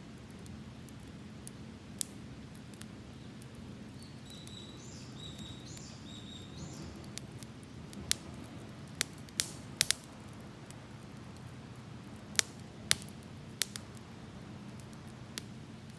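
Wood campfire crackling, with irregular sharp pops and snaps over a low steady rumble of the fire. The pops come in quick clusters around the middle and again later.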